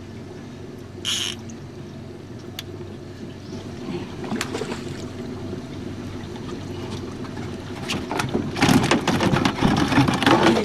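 Steady low hum of a small boat's motor running, with water sounds, and a short hiss about a second in. Near the end a rapid, loud run of clicks and knocks starts.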